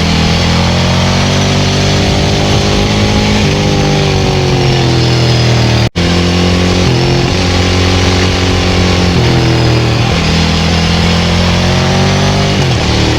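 Ducati 900SL's air-cooled 90° V-twin running through a Termignoni full exhaust under way, its pitch repeatedly rising under throttle and dropping back at gear changes and roll-offs. The sound cuts out for an instant just under six seconds in.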